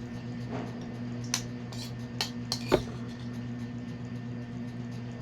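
Spoon and dishes clinking during a meal: a few sharp separate clinks, the loudest nearly three seconds in, over a steady low hum.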